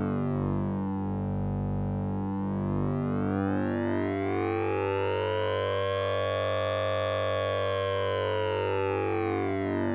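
Synthesized sync and ring-modulation tone from the Orange Vocoder VST plugin. A steady low drone runs under many shifting tones, whose upper range sweeps slowly up to its highest about seven seconds in and then falls back, like a slow siren.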